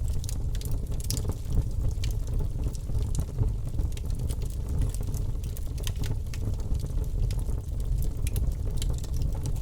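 Wood fire burning with a steady low rumble and frequent small crackles and pops.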